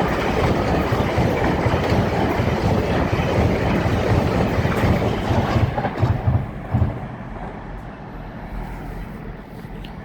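A train running past on the rails: a heavy rumble with wheel clatter, loud for about seven seconds and then dying away.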